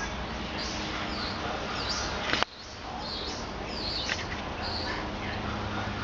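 Small birds chirping: many short, high calls in quick succession, with one sharp click about two and a half seconds in.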